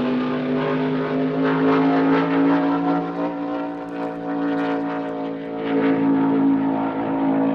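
Race car engines running hard at speed, a steady drone that slowly rises in pitch.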